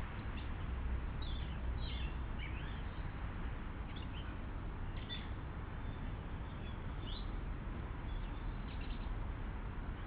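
Small garden birds giving short, high chirps, a cluster about a second in and then single ones every second or two, over a steady background hiss and low hum.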